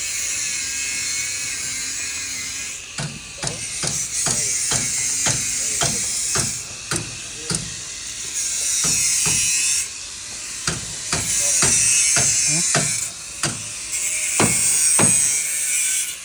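Construction work on column rebar and formwork: a dozen or so separate sharp knocks, hammer-like blows on metal or wood, starting about three seconds in, between several stretches of steady high-pitched hiss that start and stop abruptly.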